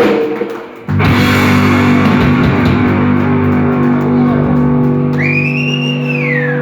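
Rock band's guitars strike a loud chord about a second in and hold it ringing. Near the end a high tone slides up and then down over it.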